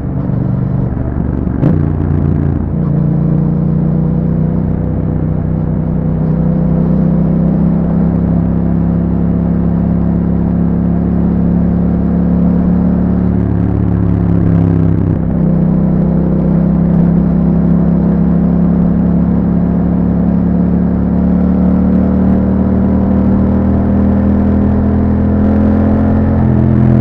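Yamaha MT-07's parallel-twin engine, fitted with an Akrapovic exhaust and a dB killer, running steadily under way. The engine note shifts abruptly about two seconds in and again about fifteen seconds in, and climbs slowly in pitch between the shifts.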